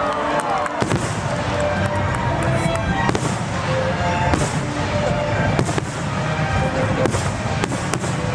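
Fireworks going off in a steady run of sharp bangs and crackles, with music playing at the same time.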